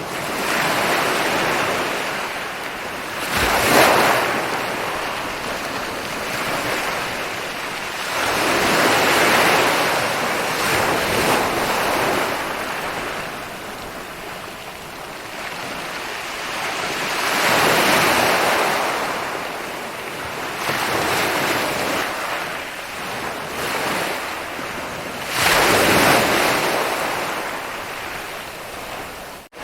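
Ocean waves rolling in and breaking on a beach, the surf rising and falling in slow surges with the loudest crashes a few seconds in and near the end. The sound drops out for an instant just before the end.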